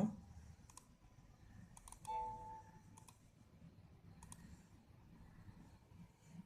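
Faint computer mouse clicks, about five spread over several seconds, as the WiFi scanning application is refreshed. A short electronic chime sounds about two seconds in and is the loudest sound.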